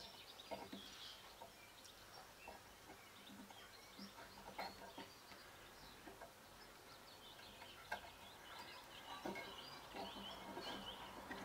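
Near silence: quiet room tone with faint, scattered bird chirps in the background and a few soft clicks.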